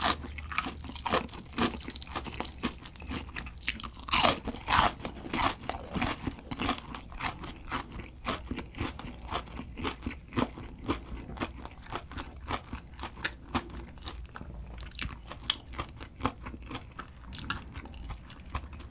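A person chewing a mouthful of crispy deep-fried breaded shrimp: a steady run of sharp crunches, several a second, loudest about four to five seconds in.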